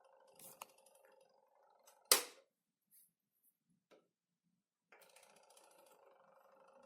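Tower fan motor humming steadily with a clear tone. The hum dies away about a second and a half in, a sharp click follows, then a couple of faint ticks, and the hum starts again suddenly about five seconds in.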